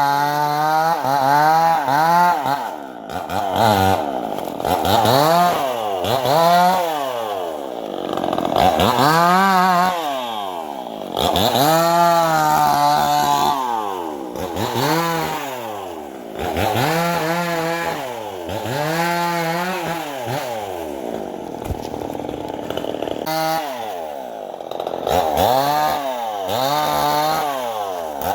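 Diesel-driven circular saw cutting teak wood. The machine's hum repeatedly drops in pitch and comes back up, about every one to two seconds, as the blade slows under each cut and recovers.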